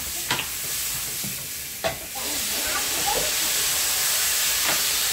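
Food sizzling in hot pork lard in a pan, a steady frying hiss with a few sharp clicks.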